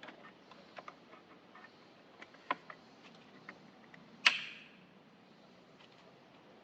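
Scattered light clicks and ticks of parts and tools being handled, with a sharp click about two and a half seconds in and one loud clack with a brief ring just past four seconds.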